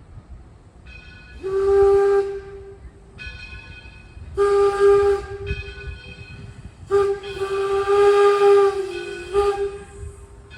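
Steam locomotive whistle blowing three blasts, two short ones and then a longer one, with a hiss of steam.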